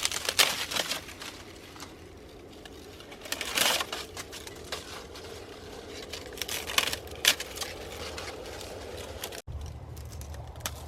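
Dry corn plants rustling and crackling, with a run of sharp irregular crunches over a faint steady hum. Near the end it changes abruptly to a steadier low rumble.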